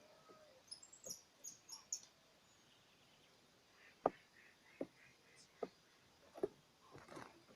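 Faint short, high chirps of small birds in the first two seconds, followed by several sharp, brief ticks or calls lower in pitch, spaced under a second apart.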